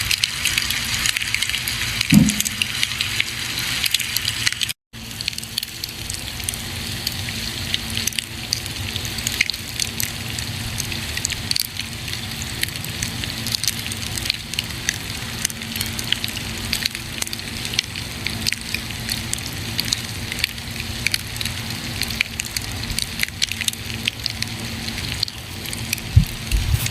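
Campfire burning, a steady hiss with frequent sharp crackles and pops from the wood. A brief low thump comes about two seconds in, and the sound cuts out for an instant about five seconds in.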